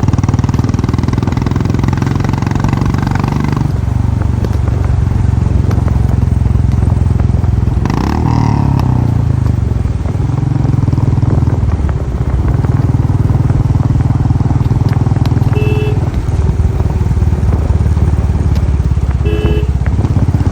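Motorcycle engine running while riding, its note shifting several times with throttle and gear changes. Two brief beeps come a few seconds apart near the end.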